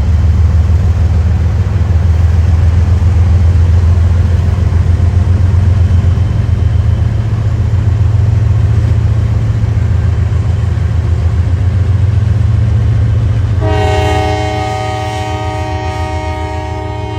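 Diesel locomotive running close by with a heavy, steady low engine rumble; about fourteen seconds in its horn sounds a long chord that holds on to the end.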